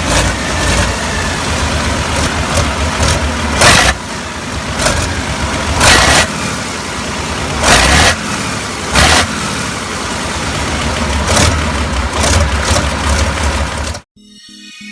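Diesel engine running loud, with about half a dozen short, sharp bursts of revving, a few seconds apart. It cuts off suddenly near the end, and electronic music takes over.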